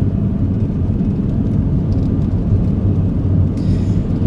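Steady low road and engine rumble of a car driving, heard from inside the closed cabin.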